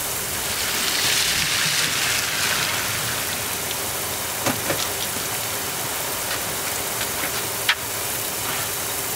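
Heavy rain falling steadily on grass and pavement, a little stronger about a second in. A few short sharp clicks sound around the middle, and a louder single knock comes about three-quarters of the way through.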